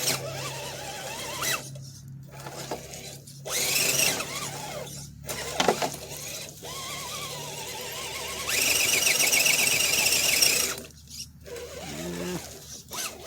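1/10-scale Redcat Gen7 rock crawler's electric motor and geartrain whining in short spurts, the pitch rising and falling with the throttle as it struggles through wet mud. About eight and a half seconds in there is a louder, higher-pitched stretch of about two seconds.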